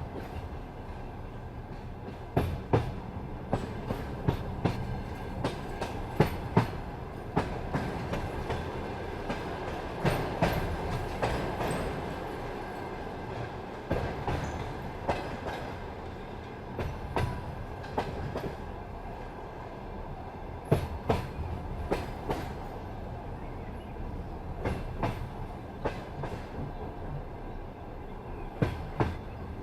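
Passenger train's wheels clacking over rail joints and switches as it pulls into a station, in irregular pairs and clusters of sharp knocks over a steady rolling rumble.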